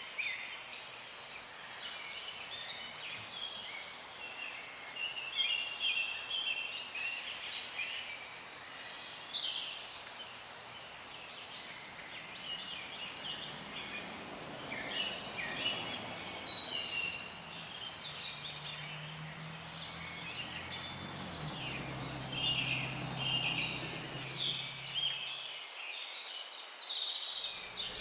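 Several small birds chirping, a dense chorus of short, quick descending calls repeated over and over. A faint low hum comes in during the second half and stops a few seconds before the end.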